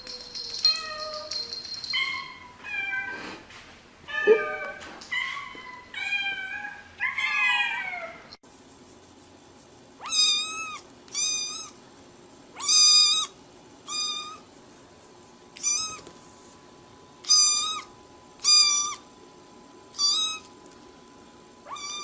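Cats meowing. First comes a run of short meows that vary in pitch. After a sudden cut about eight seconds in, there is a string of about nine short, similar meows, roughly one every second or so.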